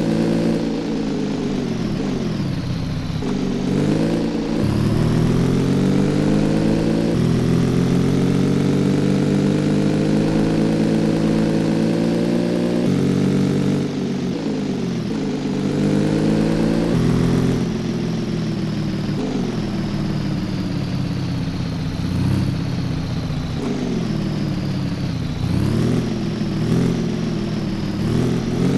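Cafe racer motorcycle engine under way, its pitch climbing as it accelerates and then dropping abruptly at each gear change, several times over; near the end the revs rise and fall in short swells.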